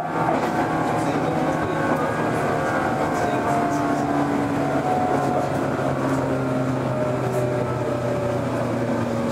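Interior running sound of a 413 series electric multiple unit: a steady rumble of wheels on rail with traction-motor and gear whine slowly falling in pitch as the train slows, and faint scattered clicks.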